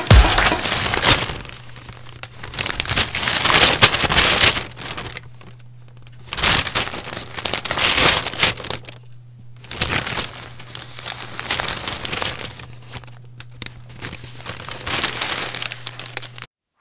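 Plastic cling wrap crinkling and rustling in repeated bursts as it is stretched over a glass bowl and pressed around the rim, over a faint steady low hum. The sound cuts off suddenly just before the end.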